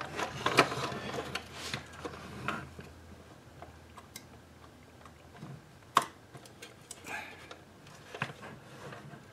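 Light handling noises and small plastic clicks from working the ribbon-cable connector latch on a climate control circuit board, with one sharper click about six seconds in.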